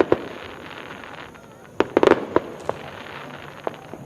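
Fireworks exploding in sharp bangs: one right at the start, a rapid cluster of several around two seconds in, and a fainter single bang near the end.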